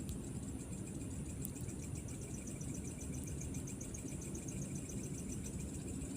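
Night insects, crickets, chirping in a rapid even pulse that starts about a second and a half in and fades near the end, over a steady high insect hum and a steady low rumble.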